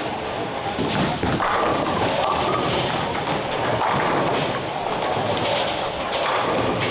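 Bowling alley din: thuds of balls on the lanes and pins being knocked down, with background chatter.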